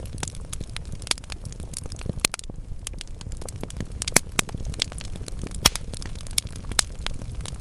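Wood logs burning in a fireplace: a steady low rumble of flame with irregular sharp crackles and pops, the loudest pops about four and five and a half seconds in.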